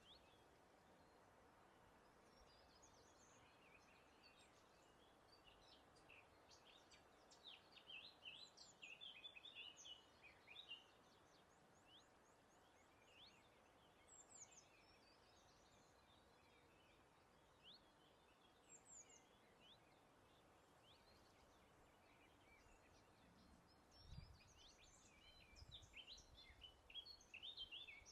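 Several songbirds chirping and trilling faintly over a steady soft hiss of breeze. The song comes in clusters a quarter of the way in and again near the end, with a brief low rumble just before the end.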